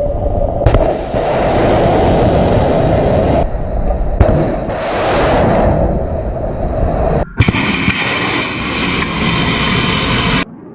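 Ship-launched Kalibr cruise missiles taking off: the loud, rushing roar of the launch rocket motor. Several launch clips are joined together, so the roar changes abruptly a few times and cuts off suddenly near the end.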